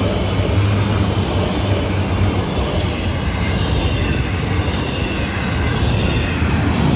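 Freight train cars rolling past close by with a steady rumble of steel wheels on rail: enclosed autorack cars giving way to double-stack container well cars.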